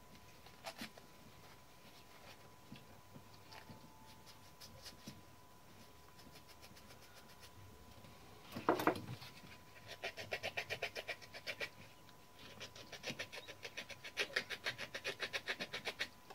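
Hand work on small metal typewriter key parts: a few light clicks, one louder knock about halfway through, then two runs of rapid, evenly spaced metallic ticking.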